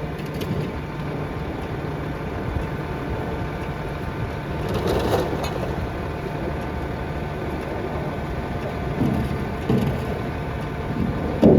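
Mini rear-loader garbage truck's packer compacting recycling over a steady engine drone, with bursts of crunching and cracking as the load is crushed, about five seconds in, twice a little after nine seconds, and again near the end.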